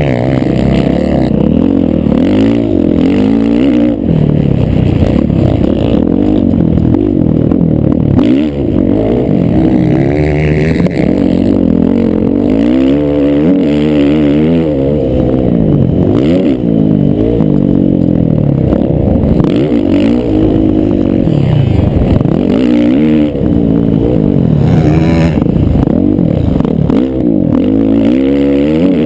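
Several motocross bikes racing at once, their engines revving up and dropping back over and over as they accelerate and shift, the notes constantly overlapping.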